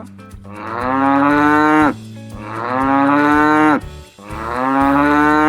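A cow mooing three times in a row, each moo long and drawn out, dropping in pitch at the end.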